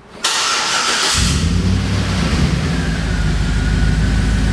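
The truck's 5.3-litre Vortec V8 starting: a short burst of cranking noise, then the engine catches about a second in and runs with a steady low rumble.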